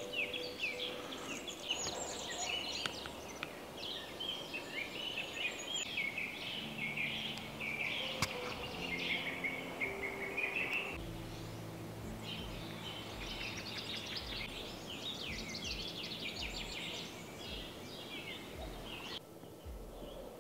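Many wild songbirds singing at once in a forest, with overlapping chirps and trills; the chorus cuts off abruptly near the end.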